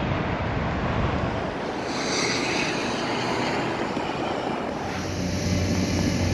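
Steady road traffic noise, with a louder swell about two seconds in like a vehicle passing close by; the background changes about five seconds in.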